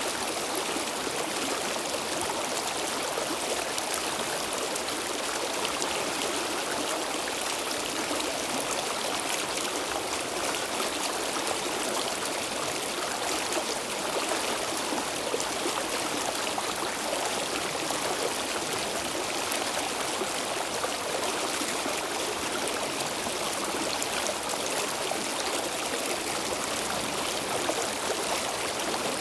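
Stream water flowing and trickling steadily, a constant rushing burble with no pauses.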